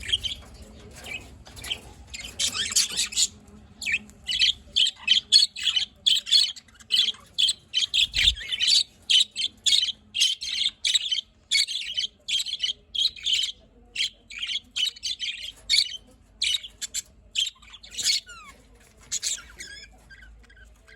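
Budgerigars chirping and chattering in a quick run of short, high, sharp calls that thins out near the end.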